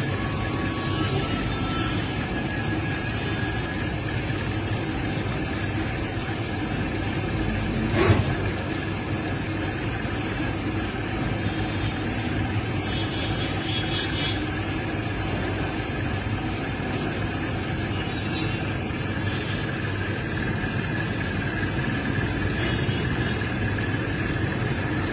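A steady low rumble like a running vehicle, with one sharp knock about eight seconds in.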